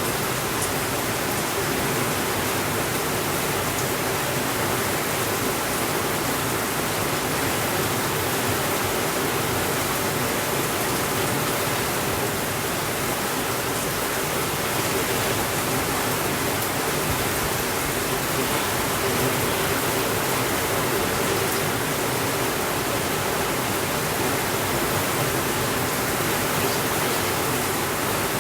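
Steady rainfall, an even hiss that holds level throughout.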